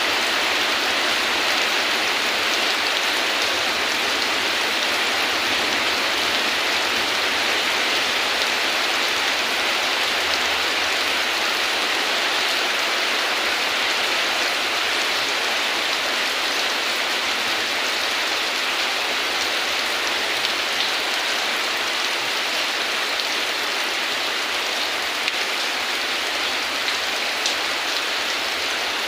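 Heavy rain falling steadily, an even hiss of drops with a few sharper drop ticks near the end.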